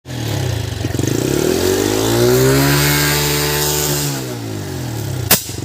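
TVS Sport motorcycle's single-cylinder engine revved up and back down, then one sharp pop from the silencer near the end: the 'fatas fatas' backfire fault. The mechanic says it could come from a cut choke cable, a poor air-fuel mixture or a cracked carburettor.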